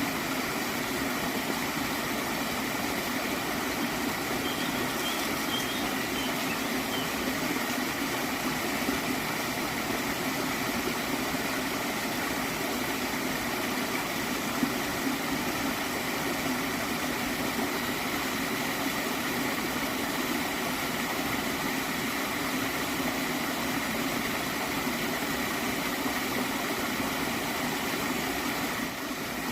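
Stream of water flowing steadily, a continuous gurgling rush with no breaks.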